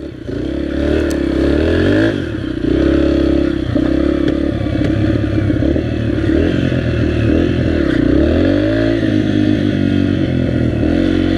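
Dirt bike engine running under load, its pitch rising and falling again and again as the throttle is opened and closed.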